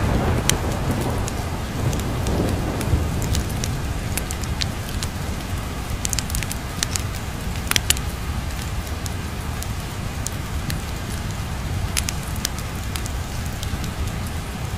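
Wood fire crackling, with frequent sharp pops, over a steady patter of rain. A low thunder rumble dies away in the first couple of seconds.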